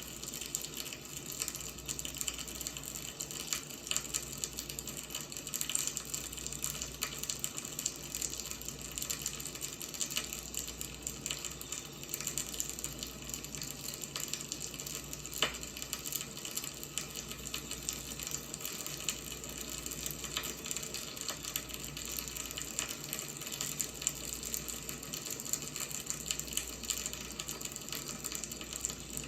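Firewood burning: a steady hiss with frequent small crackles and pops, one sharper pop about halfway through.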